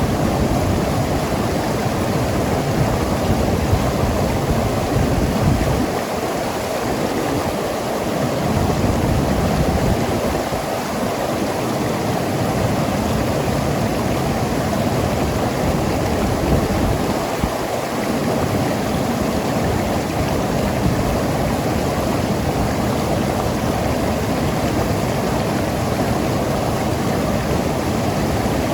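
Mountain river rushing and gurgling over rocks, a steady even roar of water that dips slightly in its deepest part now and then.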